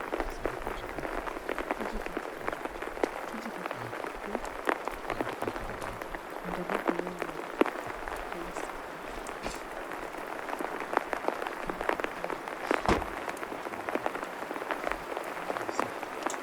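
Steady rain falling on a surface: a dense, even patter of drops with a few louder single taps.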